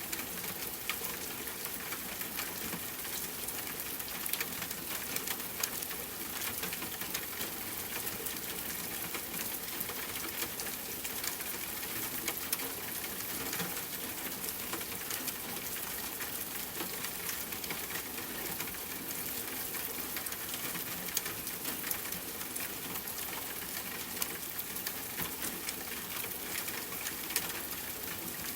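Steady rain falling, with a campfire crackling: many small sharp pops and ticks scattered through the constant hiss of the rain.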